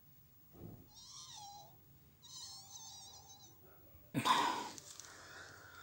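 Removed rear shock absorber squeaking as it is worked, with two drawn-out squeals of wavering pitch, like rubber squeaking. This is the squeak the car had at the rear, though the shocks still work. A louder, noisier sound follows about four seconds in.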